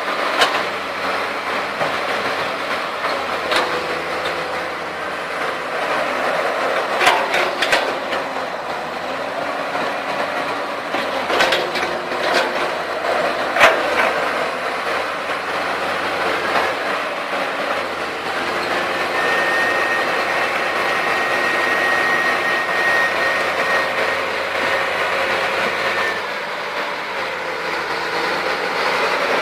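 Heavy diesel engines of a Komatsu PC200 excavator and a Caterpillar D6D crawler bulldozer running hard while the excavator drags the mud-stuck dozer, with steel tracks and metal parts clanking. There are sharp metal knocks about a quarter of the way in and again around the middle, and a thin high whine holds for several seconds in the later part.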